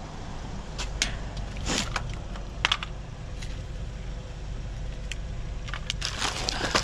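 Rummaging through discarded packages in a dumpster: scattered light clicks and knocks as items are moved, then a burst of rustling and crinkling near the end, over a steady low rumble.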